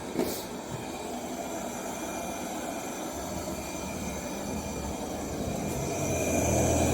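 Robot vacuum cleaner running with a steady whir and a thin high whine, with a short click just after the start; it grows louder near the end.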